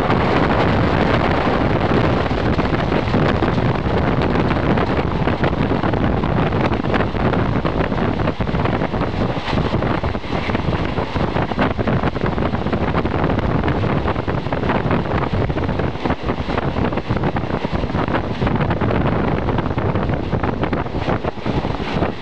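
Wind buffeting the microphone at the open window of a moving passenger train, over the steady rumble of the carriage running on the rails, with many small irregular clicks and knocks.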